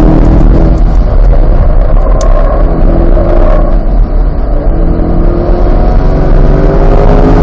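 Corvette C8's 6.2-litre V8 at speed on a racetrack: the engine note breaks off at the start as the throttle comes off, runs through a rougher stretch of engine and road noise, then climbs steadily in pitch again under hard acceleration near the end.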